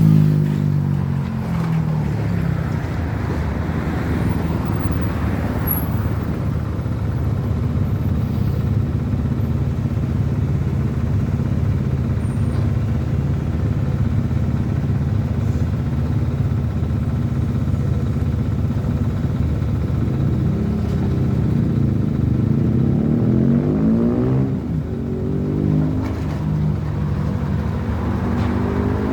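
Motor engines running steadily. A vehicle passes close by with a rise and fall in pitch about 24 seconds in, and another near the end.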